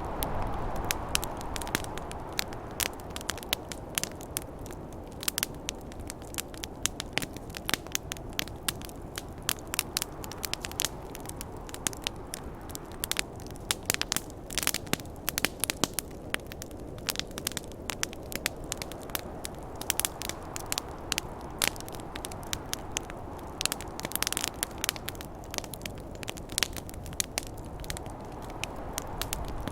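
Campfire crackling with frequent sharp pops, over a steady low rush of snowstorm wind.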